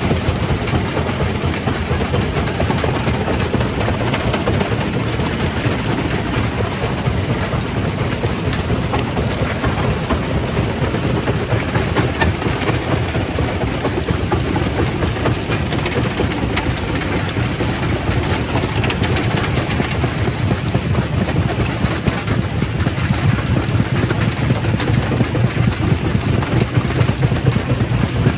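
Quarry primary rock crusher running and crushing stone: a steady low machine drone under a dense, continuous clatter of rock breaking, slightly louder near the end.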